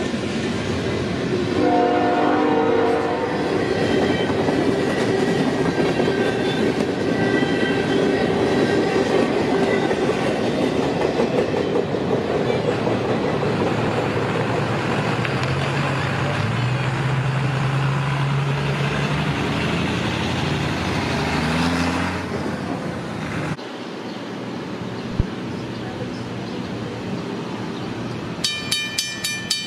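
A train horn blows near the start, then a train runs past with wheels clattering over the rails and a low, steady locomotive engine drone. After a break, a Western Railroad Supply mechanical grade-crossing bell starts ringing near the end, with rapid even strikes about four a second.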